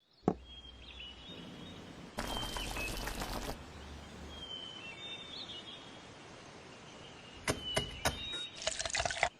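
Small birds chirping now and then over a faint steady outdoor hush, with a burst of rustling about two seconds in and a few sharp clicks followed by more rustling near the end.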